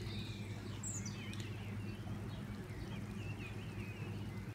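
Faint bird chirps, a run of short quick twitters, over a steady low hum.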